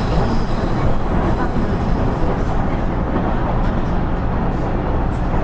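Running noise inside a KiHa 110 series (KiHa 112) diesel railcar under way: a steady rumble of the wheels on the rails and the running gear.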